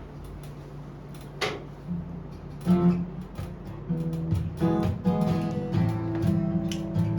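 Acoustic guitar strummed in chords, starting about two and a half seconds in after a quiet stretch with a single knock, and growing louder.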